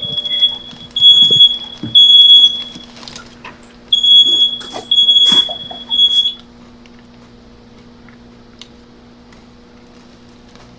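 Smoke alarm sounding a shrill, piercing beep in groups of three, the fire-alarm pattern: three beeps, a pause, three more, then it stops about six seconds in.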